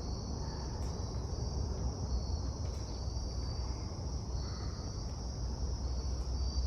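Steady, unbroken chorus of insects such as crickets, high-pitched, with a low rumble underneath.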